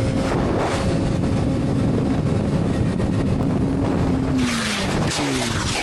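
Motorcycle engine running as the bike rides, with heavy wind rushing over the microphone; the engine pitch drops about four seconds in and again near the end as the rider eases off.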